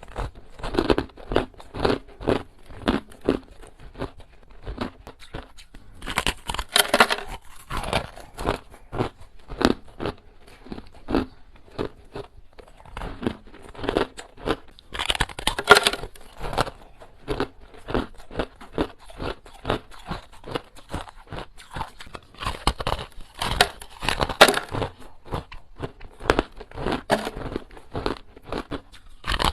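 Hard ice being bitten and chewed close to the microphone: a steady run of crisp crunches, about two a second, with three spells of louder, sharper crunching where fresh bites are taken.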